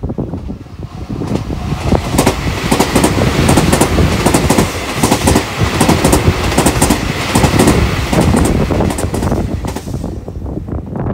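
Tokyu 2020 series electric commuter train passing close by: a rush of wheels on rail that builds about two seconds in, with a run of repeated clacks as the wheels cross rail joints, then dies away near the end.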